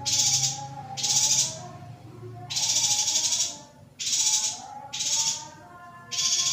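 Female yuhina giving a series of harsh, buzzy calls, about six in a row, each about half a second long. Fainter warbling tones run underneath.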